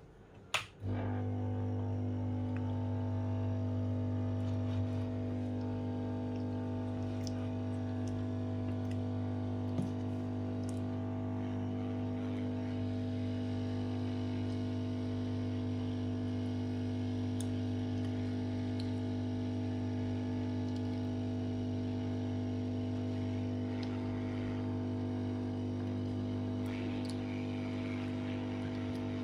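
Amplifier powered up with a sharp click, then a steady buzzing hum from its speaker, strongest at a low pitch and unchanging throughout.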